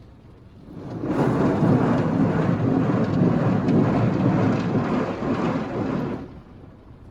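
D&S IQ 2.0 soft-touch automatic car wash pouring water and scrubbing over the car, a loud, even rumble on the body. It swells in about a second in and falls away near the end.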